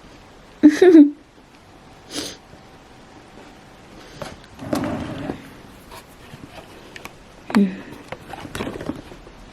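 A domestic cat making several short vocal sounds, spaced a few seconds apart; the loudest comes about a second in, and one near the end falls in pitch like a meow.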